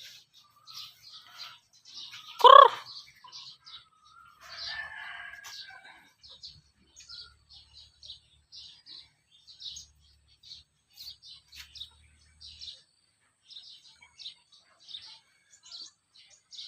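Chickens peeping and calling: a steady run of short, high peeps, with one loud call about two and a half seconds in and a rougher, longer call a couple of seconds later.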